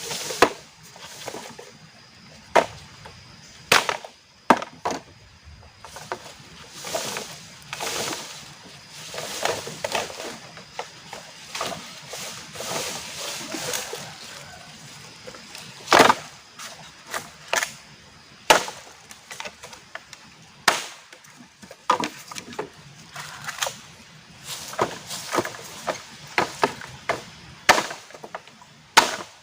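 Wood being chopped and broken by hand: irregular sharp strikes and cracks, with rustling of branches and leaves between them.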